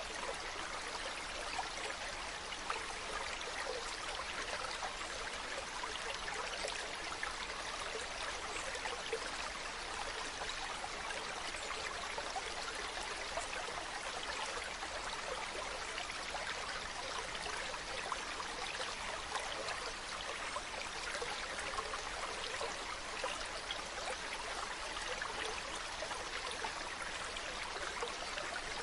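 Mountain stream running over rocks: a steady rush of water with fine splashing and trickling.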